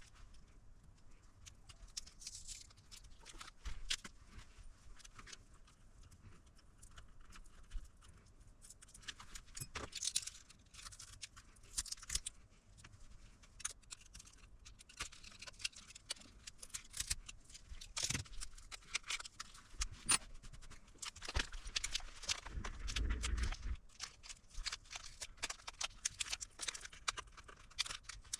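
Hand work on a portable power station: scattered small clicks and light metallic jingling of tools and small metal parts being handled. A short, low, rubbing thud comes about three-quarters of the way through.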